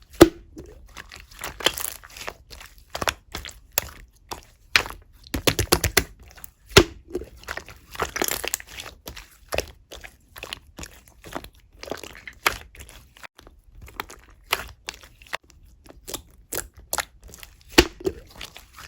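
Slime being worked by hand, pressed, folded and stretched, giving irregular sharp clicks and crackling pops, with a quick run of pops about five to six seconds in.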